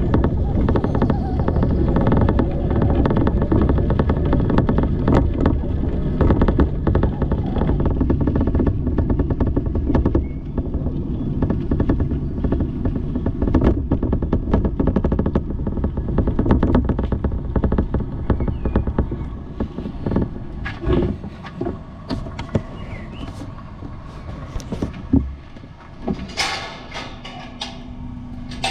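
Bicycle riding over a street: a steady low rumble of tyres and road with many small rattles and clicks. It quietens about twenty seconds in, leaving scattered knocks and one sharp thump.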